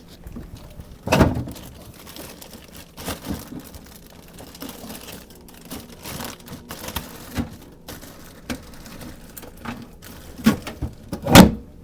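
Kitchen handling noises: scattered clicks and knocks of things being moved and set down on a counter, with some rustling, and a heavier thump about a second in and another near the end.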